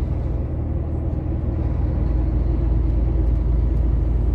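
Steady low drone inside a semi-truck's cab while it drives on the highway: engine and road noise.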